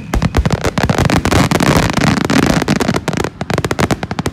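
Fireworks going off in a rapid barrage: dense overlapping cracks and bangs, many each second, thinning to scattered single reports near the end.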